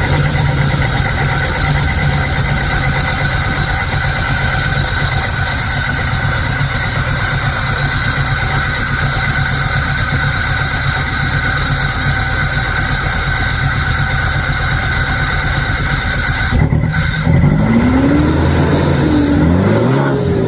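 Chevy S-10 pickup engine running at a steady speed, then, with about four seconds left, its pitch rising and falling as the engine is revved.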